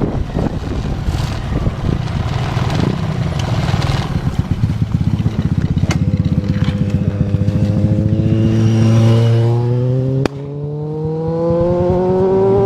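Motorcycle engine running hard under acceleration: a rough pulsing rumble at first, then a pitch that climbs steadily for several seconds, falls sharply with a click about ten seconds in, and climbs again.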